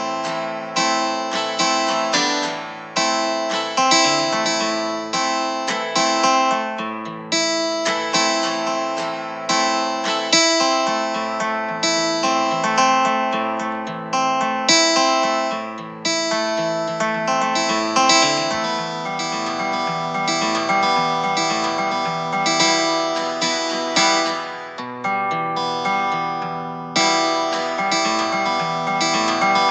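Background music played on guitar: plucked and strummed chords ringing on, with a fresh attack every second or so.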